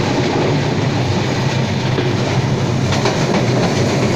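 Passenger train running steadily along the track, heard at an open carriage window: a continuous rumble with the clickety-clack of wheels over the rails, and a few sharper clacks about three seconds in.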